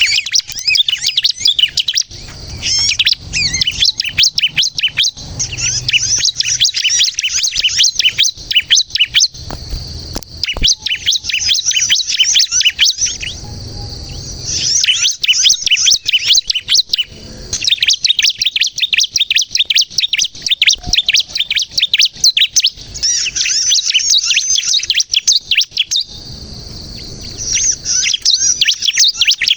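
Bar-winged prinia (ciblek kristal) singing vigorously. Long runs of rapid, high-pitched chirping notes repeat with only brief pauses, twice dropping out for about a second.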